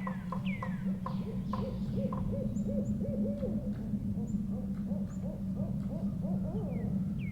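Owls hooting, with a rapid run of short notes about five a second early on and then repeated wavering hoots, over a steady low background. Other birds give a few falling whistled calls near the start and again near the end.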